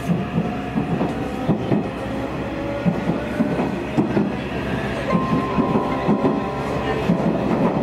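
Nishitetsu electric train running, heard from inside the car: the wheels knock and clatter over rail joints under a steady electric whine. A higher whine tone joins about five seconds in.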